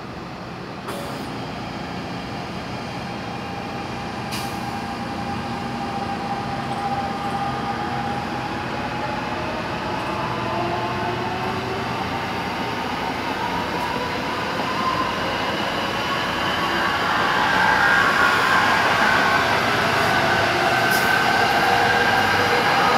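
Electric passenger train running along the track with wheel and rail rumble and a whine that slowly rises in pitch. The whole sound grows steadily louder, loudest in the last few seconds.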